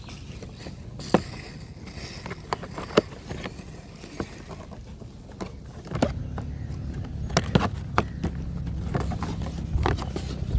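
Scattered clicks and taps of packaging and plastic parts being handled during unboxing, over a low rumble that grows louder about six seconds in.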